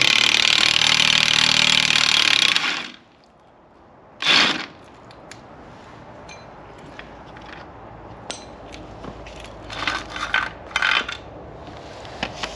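A power tool runs hard for about three seconds, undoing a bolt that passes right through the Hilux chassis, then gives one short second burst. A few light metal clinks follow near the end.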